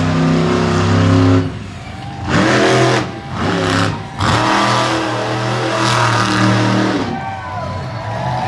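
Monster truck engine revving hard, with the throttle cut and reapplied several times in quick succession, then held high for about three seconds before easing off near the end.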